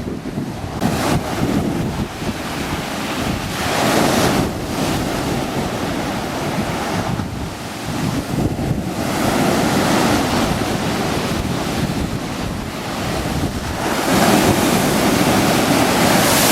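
Rough sea with big waves breaking on the shore, the surf swelling every few seconds. Wind buffets the microphone.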